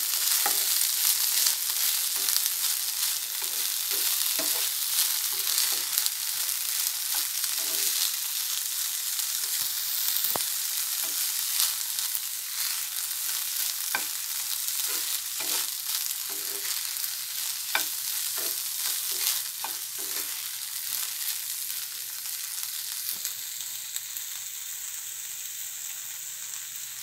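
Boiled sweet corn kernels sizzling in ghee in a nonstick frying pan, stirred with a spatula that scrapes and taps against the pan again and again. The sizzle grows a little quieter over the last few seconds.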